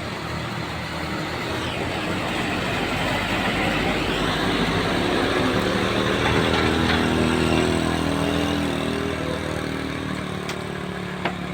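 A motor vehicle's engine pulling up a steep climb as it passes close by, growing louder over the first several seconds and fading near the end, over a steady hiss.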